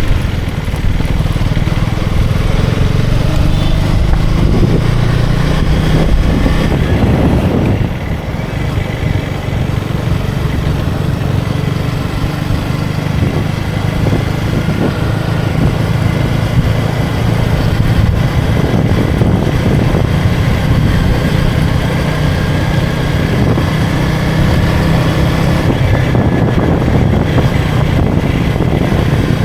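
KTM Duke 250 single-cylinder engine running under way at road speed, its low engine note steady over heavy wind rumble on the microphone. The level drops briefly about eight seconds in, then picks up again.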